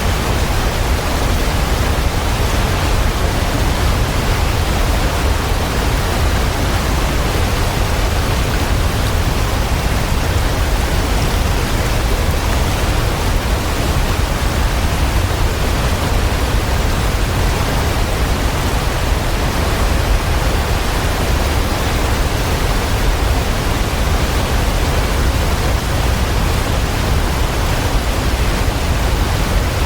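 Waterfall rushing: a steady, dense roar of falling water, heaviest in the low end, with no change in loudness.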